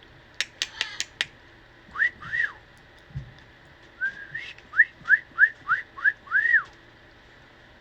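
Short whistled notes: a pair of rising-and-falling whistles about two seconds in, then a quick run of six rising whistles ending in a longer arched note. A few sharp clicks come near the start.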